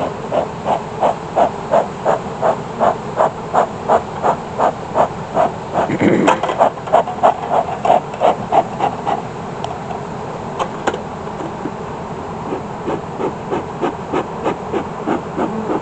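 Bee smoker's bellows pumped in quick, regular puffs, about two or three a second, pausing for a few seconds and then starting again. A single low thump sounds about six seconds in.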